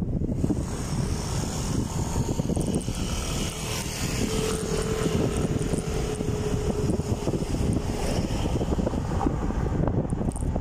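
Wind buffeting a camera microphone while riding, a dense low rumble; a steady hum sounds for a few seconds in the middle.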